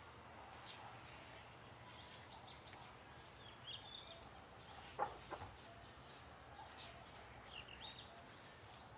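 Pages of a coloring book being turned, making soft paper swishes three or four times, with faint bird chirps in the background and one sharp tap about five seconds in.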